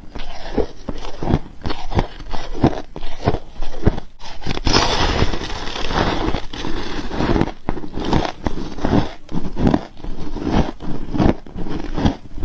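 Crisp frost ice being bitten and chewed close to the microphone: repeated crunches, about two or three a second, with a denser run of crackling crunching around the middle.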